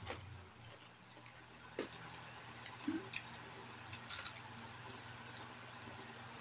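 Close-up mouth sounds of eating a crispy vegetable fritter (bakwan sayur): chewing with a few short crunches and clicks, the sharpest as a fresh bite is taken about four seconds in.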